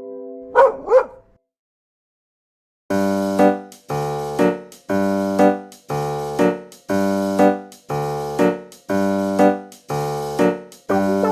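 Two short dog barks about half a second apart, followed by a brief silence and then background music of keyboard chords struck about once a second.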